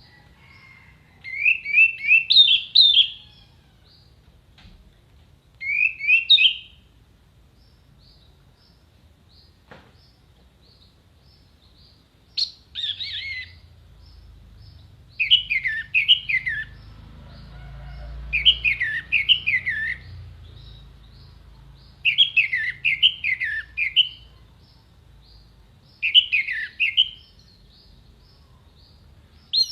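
Orange-headed thrush singing in short, separate phrases of quick falling notes, a new phrase every two to four seconds.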